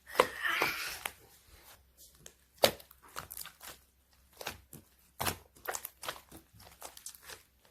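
Hands working a melted yellow clear slime: a burst of sticky squishing in the first second, then scattered sharp clicks and pops as it is pressed and pulled.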